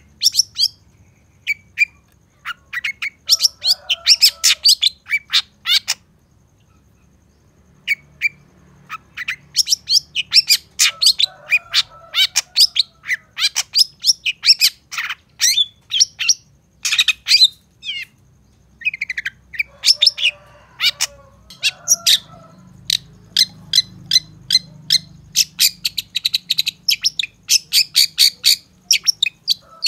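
Long-tailed shrike singing: rapid runs of sharp, high chips and chatters with harsher, lower rasping notes mixed in, broken by a pause of about two seconds some six seconds in.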